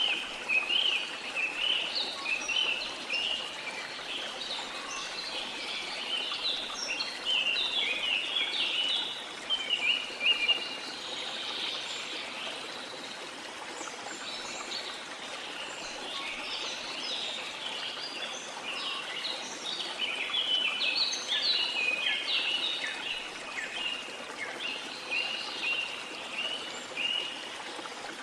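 Jungle birds chirping over the steady rush of a waterfall. Rapid chirps come thick in the first ten seconds, thin out for a while, then pick up again after about twenty seconds.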